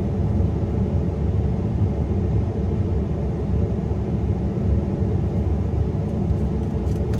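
Steady low rumble at an even level, with no speech.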